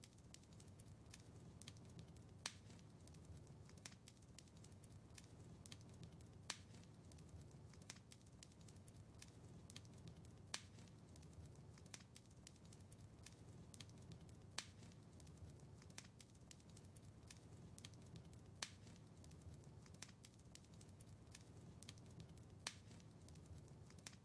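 Wood fire crackling faintly in a fireplace: a steady run of small ticks and snaps over a low rumble, with a sharper pop about every four seconds.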